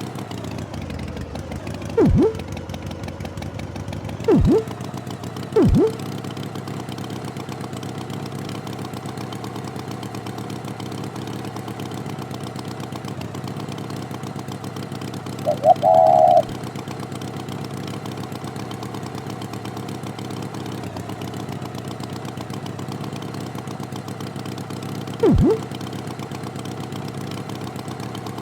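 Tractor engine running steadily at idle. Four short blips drop sharply in pitch, three in the first six seconds and one near the end, and a brief higher-pitched tone comes about halfway through.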